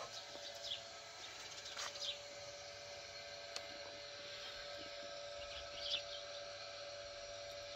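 Outdoor ambience with a few short bird chirps now and then, over a steady faint hum.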